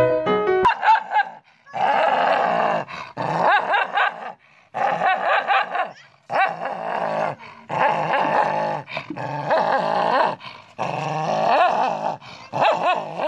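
Dogs snarling and growling at each other in repeated rough bouts, each about a second long, with short breaks between them. A little background piano music is heard at the very start.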